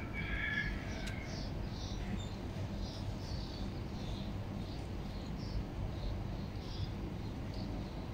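Small birds chirping repeatedly, short high notes at about two a second, with one louder, lower call about half a second in, over steady low background noise.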